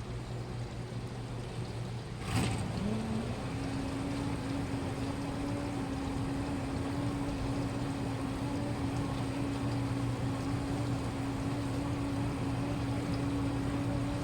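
Washing machine running with a steady hum. About two seconds in a click sounds and a motor starts, its hum rising briefly in pitch and then holding steady.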